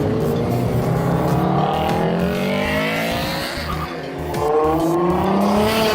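Car engine revving up hard with tyres squealing, easing off about four seconds in, then climbing in pitch again.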